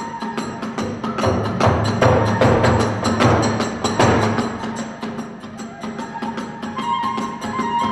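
Hiroshima kagura music: drums and small hand cymbals beating out a fast, steady rhythm, with the drum swelling louder about one to five seconds in and a held high tone entering near the end.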